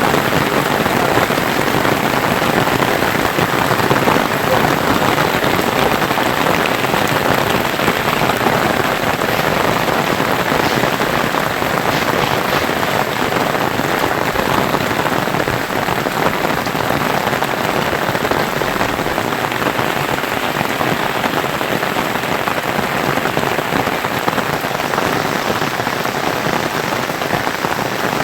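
Steady heavy rain falling and pattering on surfaces, a dense, even hiss of drops.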